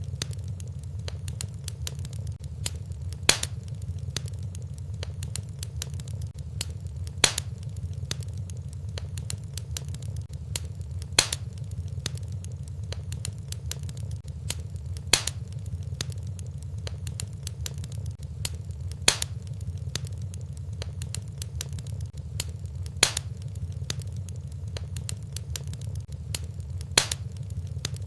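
Fire crackling in a fireplace: a steady low rumble of flame with many small crackles, and a louder sharp pop about every four seconds.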